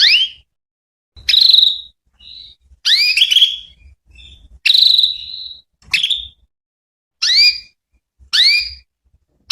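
Female canary calling: short, rising whistled calls repeated about once a second, some ending on a brief held note, used as a lure to set male canaries answering.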